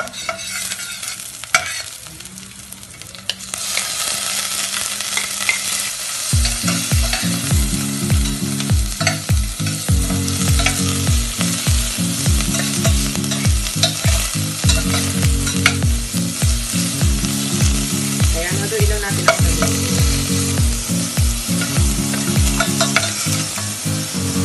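Chicken pieces frying in a little hot oil with garlic and onion in a stainless steel pot, stirred with a metal spatula. The sizzle gets much louder about three to four seconds in and then holds steady.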